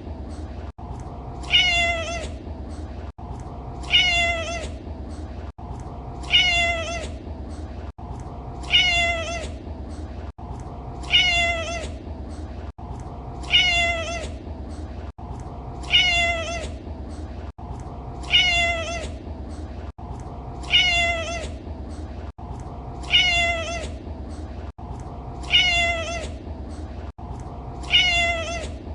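A domestic cat meowing: the same short meow repeats about every two and a half seconds, twelve times, over a steady low background noise, with a brief break in the sound shortly before each meow.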